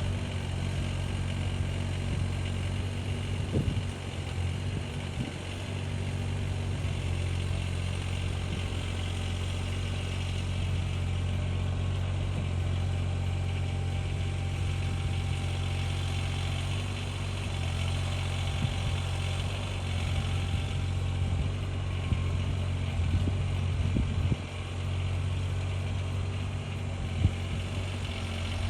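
An engine running steadily at an even speed, with a few brief knocks over it.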